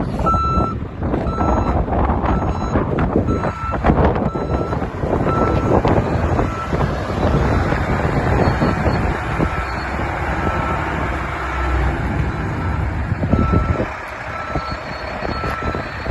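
Mack truck's backup alarm beeping steadily about once a second as it reverses, over the low rumble of its diesel engine running.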